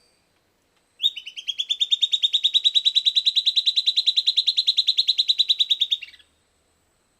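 Silvered antbird singing its song: one loud, rapid, even trill of about ten notes a second, lasting about five seconds, rising slightly at the start and ending on a quick downward slur. The bird is singing in response to playback.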